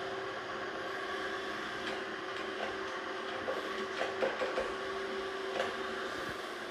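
Narwal Freo Z Ultra robot vacuum and mop running, a steady motor hum with a held whining tone. A few light clicks come between about three and a half and four and a half seconds in, and one more near the end.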